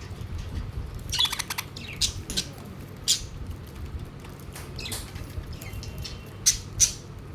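Pet budgerigars chirping and squawking: a quick run of chattering calls about a second in, then single sharp calls, with two loud ones close together near the end, over a low steady background rumble.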